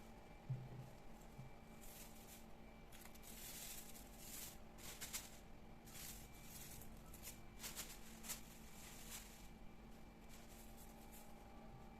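Faint handling sounds of household chores: soft rustles and light ticks scattered through, with a low thump about half a second in.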